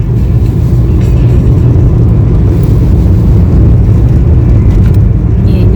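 Car driving along, heard from inside the cabin: a steady, loud low rumble of engine and road noise.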